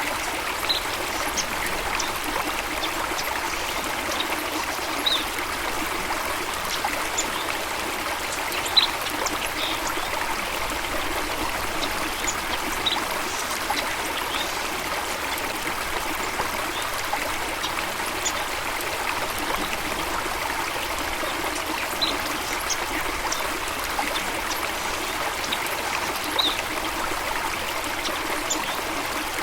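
Steady running water, with a few short, high bird chirps scattered through it.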